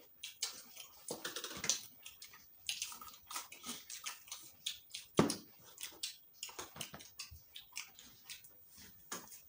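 Close-up eating sounds of several people eating sticky rice and fried eggs by hand: irregular wet chewing, lip smacks and soft clicks, with one louder smack about halfway through.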